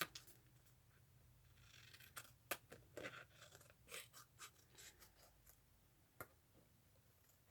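Faint handling of paper craft tags: scattered small clicks and soft rustles, mostly between about two and six seconds in.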